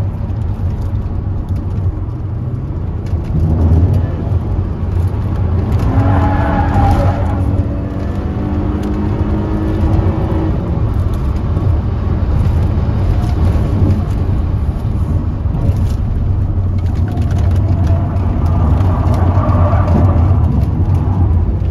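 Hyundai Coupe's engine pulling hard at high revs, heard from inside the cabin. The engine note climbs twice, about six seconds in and again about seventeen seconds in.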